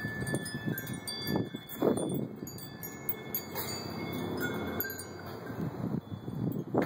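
Wind chimes ringing, scattered high metallic tones striking at irregular moments and ringing on, overlapping one another, over a low rumble of wind or handling.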